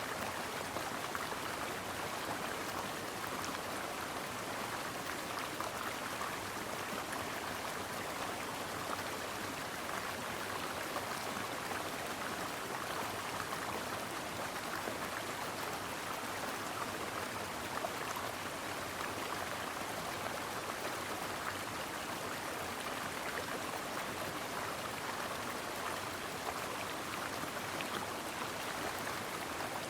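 Brook water flowing steadily over rocks, a continuous even rushing and babbling.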